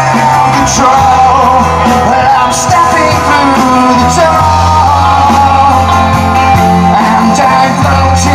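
Live rock band playing, with held bass notes changing every second or two, cymbal strokes and a wavering lead melody on top.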